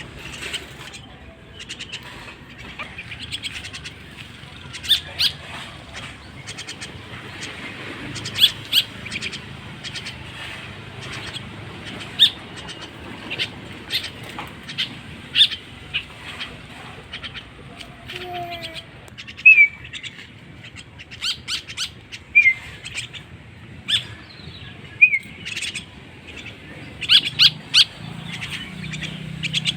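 A young jalak (starling) chick calling with short, sharp chirps at irregular intervals, with a few brief gliding whistled notes in the second half.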